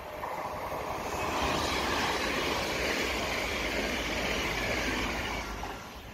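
Electric multiple-unit passenger train running past a station platform: wheel and air noise swells as it comes alongside, holds for a few seconds, then fades near the end.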